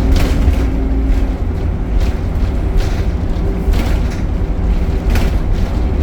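Optare Solo single-deck bus running: a steady low diesel and drivetrain rumble with several short rattles or knocks. A steady hum stops about a second in.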